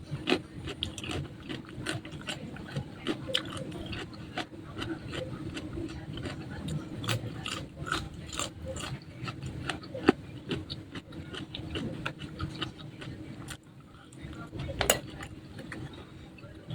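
Close-miked chewing and crunching of crispy fried food, many small irregular crackles and clicks with a few sharper crunches.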